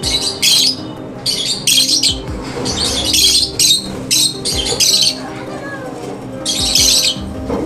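Lovebirds screeching: about a dozen short, harsh, high-pitched squawks in quick clusters, with a gap of more than a second before a last call near the end.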